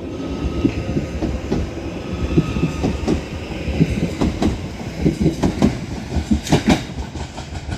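Merseyrail class 777 electric multiple unit departing, its wheels clacking over the track joints in a quick irregular series of clicks, the two loudest close together near the end. A faint steady whine sits underneath in the first few seconds.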